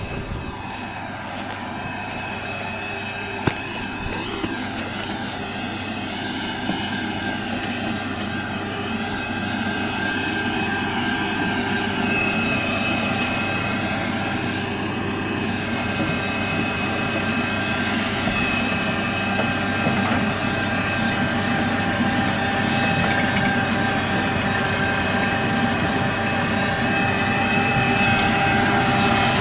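A large engine or machine running continuously with several steady whining tones, slowly growing louder.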